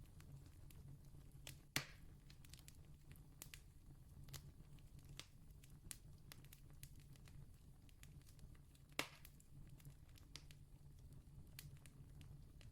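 Campfire crackling faintly, with scattered small snaps and two louder pops, about two seconds in and again near nine seconds, over a faint steady low hum.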